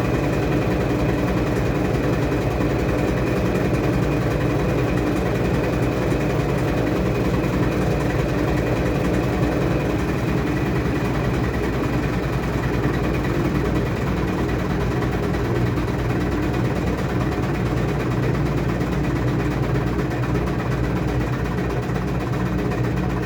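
Washing machine running with a steady motor hum; its tone changes about ten seconds in.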